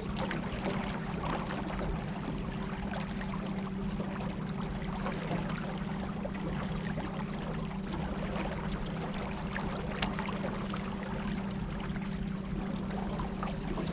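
Electric trolling motors running with a steady hum while water splashes and trickles along the hull.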